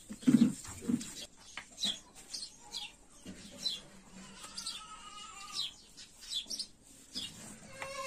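Small birds chirping again and again, short high chirps that drop in pitch, with one longer, steadier call about five seconds in. Two dull thumps about half a second and a second in are the loudest sounds.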